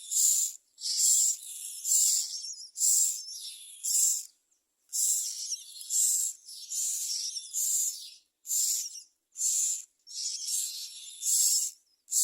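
Common myna nestlings screaming to beg for food: harsh, hissing rasps repeated about once a second with short gaps between them. The begging is a sign of hungry chicks.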